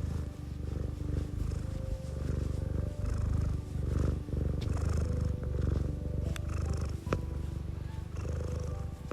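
Domestic cat purring close up: a steady low rumble that swells and eases with each breath, about once a second.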